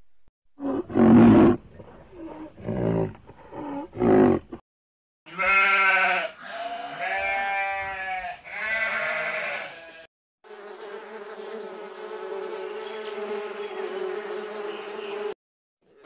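A lamb bleating three times in the middle, with wavering calls. Before that come several short, low animal calls, and after it a steady buzzing drone for about five seconds that cuts off suddenly.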